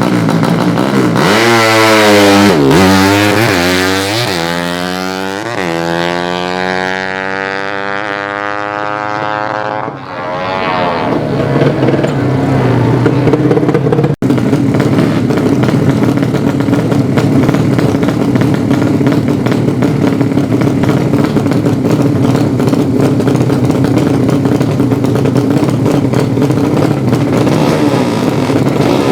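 A 200cc underbone drag-race motorcycle launching and accelerating hard through its gears, the revs climbing and dropping back at each shift four or five times, then winding out in one long rising pull that fades as it goes away. From about eleven seconds in, a motorcycle engine runs steadily close by.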